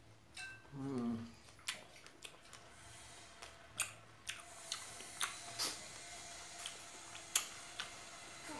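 Close-miked chewing of fresh strawberries: many wet mouth clicks and smacks scattered throughout, with a short hum falling in pitch about a second in.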